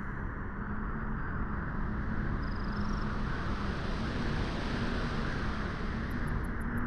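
Wind on a beach: a steady rushing noise that builds over the first second and swells with more hiss in the middle.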